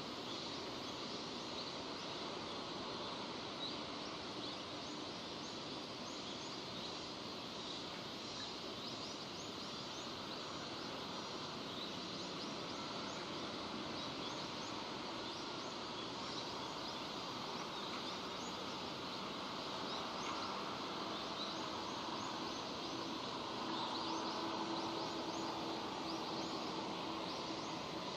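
Steady rain falling: an even hiss with many small drop ticks through it. A faint low hum comes in during the last third.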